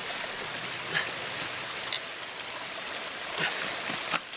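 Steady rushing noise of running water from a stream, with a few faint short knocks.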